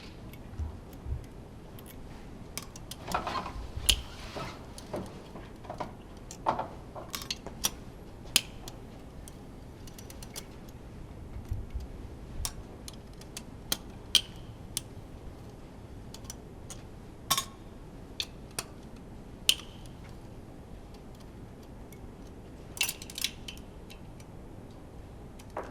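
Hand tools and metal engine parts clinking and clicking at irregular intervals as a Honda V10 Formula One engine is taken apart, over a steady low hiss.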